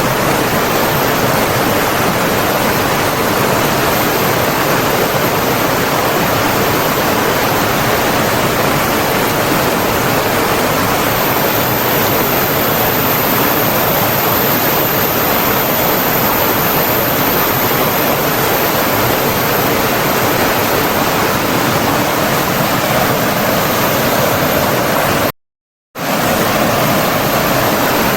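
Steady, loud rush of running water, as from a stream or waterfall, with no rhythm or change. It is broken once, near the end, by a sudden half-second silence before it resumes.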